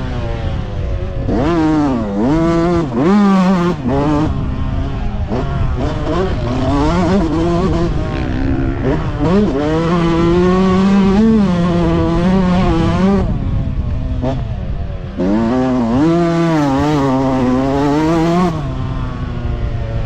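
Motocross motorcycle engines racing, revving up and dropping back over and over as the throttle opens and closes and the gears change.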